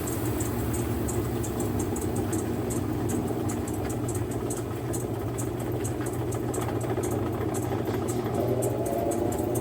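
Mueller Popmatic 8 kg washing machine running mid-cycle: a steady motor hum with a rapid faint ticking, and a rising whine coming in near the end.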